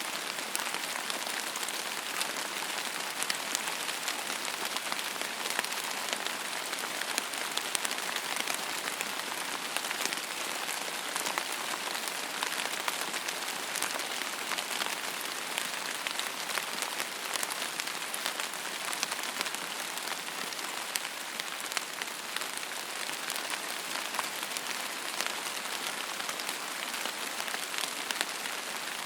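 Steady rain falling on a surface, an even hiss with the light ticks of many separate drops.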